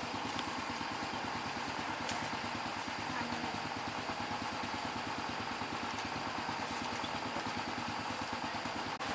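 Motorbike engine idling steadily, with a fast even low throb.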